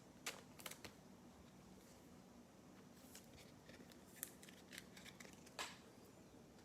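Near silence with a few faint, short clicks and rustles of trading cards being handled and flipped through by hand.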